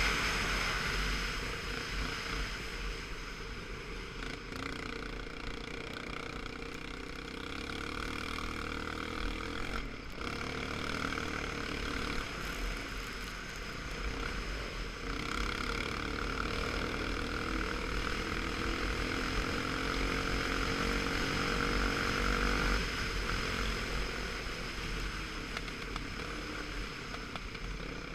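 Motor vehicle engine running steadily under a heavy wind rumble on the microphone, as while riding.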